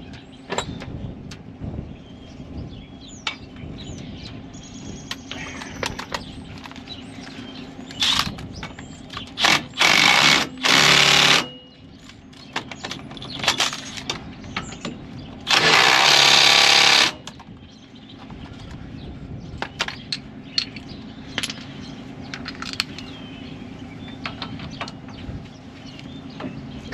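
Impact wrench fired in bursts, two longer rattling runs about a third and about halfway through, amid clicks and clinks of hand tools and parts, over a steady low hum.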